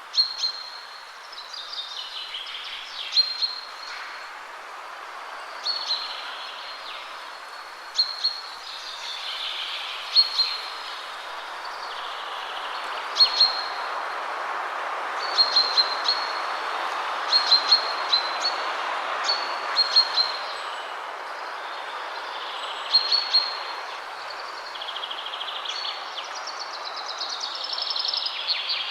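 Wind rushing through trees, swelling and easing, with songbirds singing over it: many short, sharp high calls repeated throughout and several descending trills.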